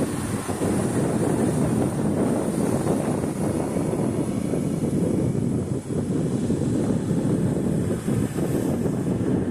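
Strong wind blowing across the microphone: a continuous low rumble that flickers with the gusts.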